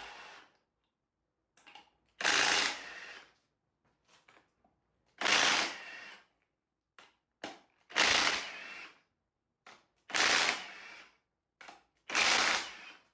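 Impact wrench breaking bolts loose on an engine's bottom end, in five separate bursts of about a second each, a few seconds apart, with small clicks of tools and parts between.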